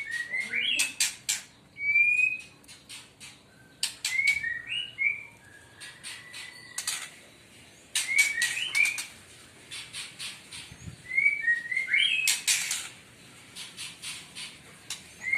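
Caged songbird singing a short phrase of whistled, rising notes mixed with sharp clicking notes, repeating about every four seconds.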